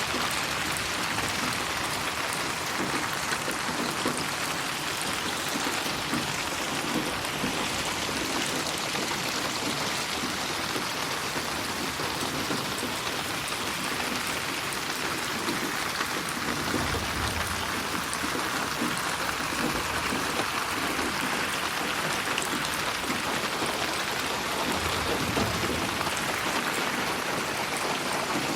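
Steady rain falling and pattering on surfaces, mixed as 8D audio that moves around the listener. Two short low rumbles come in the second half.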